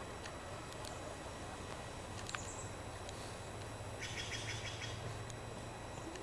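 A small songbird sings a quick run of repeated high notes lasting about a second, over a steady outdoor background hiss. A single sharp click comes about two seconds in.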